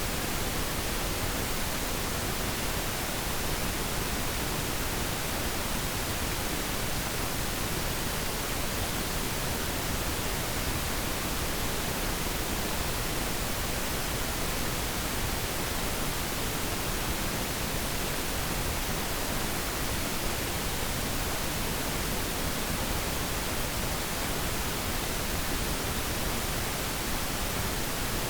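Pure pink noise: a steady, even hiss spread across all pitches, white noise with less treble, unchanging.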